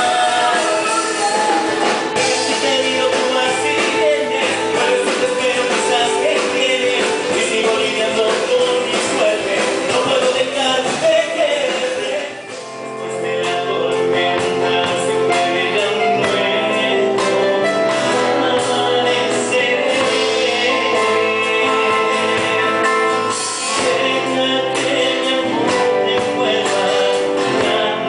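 Live band music playing a song, with a brief drop in loudness about twelve seconds in.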